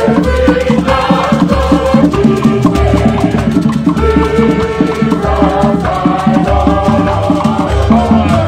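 Igbo ogene band music played live: percussion, rattles and pitched melodic lines over a steady beat.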